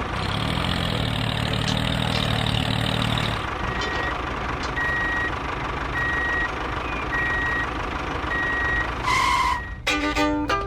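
A vehicle engine running with a steady hum, then a reversing alarm beeping at an even pace, about six beeps. Music starts near the end.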